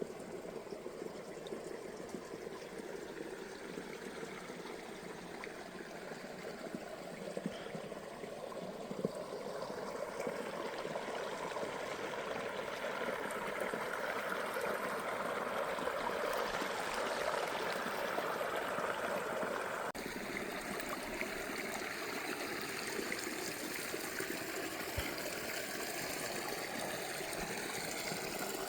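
Hot spring water flowing and trickling steadily, growing somewhat louder through the middle.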